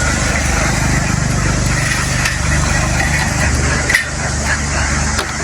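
Engine running steadily at an even speed, a low continuous drone with a brief click about four seconds in.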